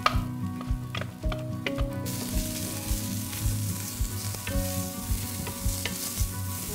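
Julienned carrots stir-frying in a stainless steel frying pan, sizzling while a wooden spatula stirs them with frequent small knocks and scrapes against the pan. The sizzle grows louder about two seconds in.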